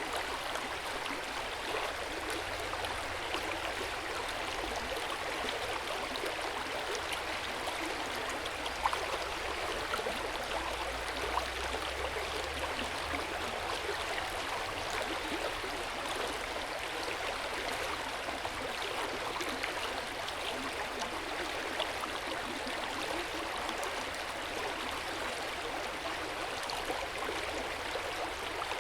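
Hot-spring water flowing steadily into an outdoor bath: an even rush of running water with small scattered splashes.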